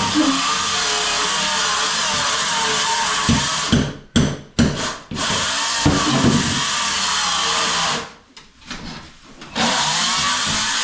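A power tool running steadily, stopping briefly twice and starting again, with some low knocks.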